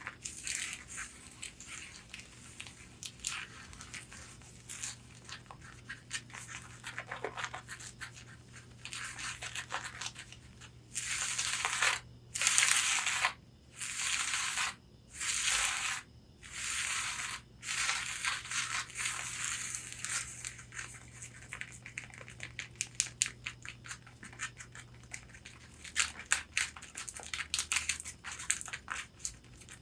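Long fingernails tapping and scratching on a corset's fabric bodice. Quick light taps run throughout, with a run of about six longer scratching strokes in the middle.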